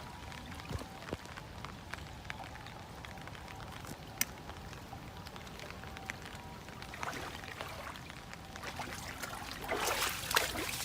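Floodwater running and trickling, getting louder and more splashy near the end, with a sharp click about four seconds in.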